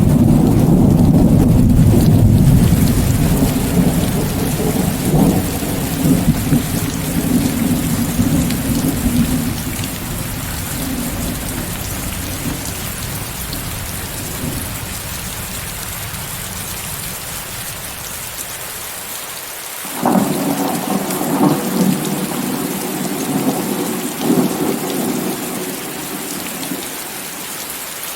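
Heavy rain hissing steadily, mixed with white noise, under rolling thunder: a deep rumble fades away over the first ten seconds, then a new crackling peal breaks about twenty seconds in and rolls for a few seconds.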